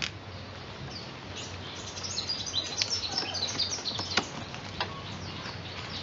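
Small birds twittering in a quick burst of high chirps through the middle, over steady outdoor background. A few sharp clicks come from split bamboo strips being worked into a woven beehive.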